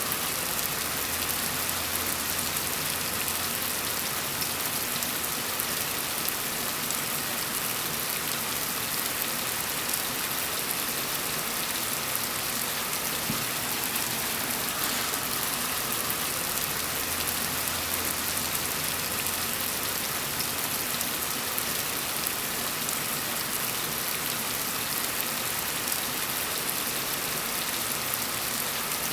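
Gentle rain falling steadily, an even, unbroken hiss of drops.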